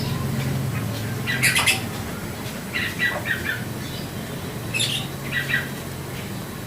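Domestic canary chirping in three short bursts of quick notes, spaced about two seconds apart, over a steady low hum.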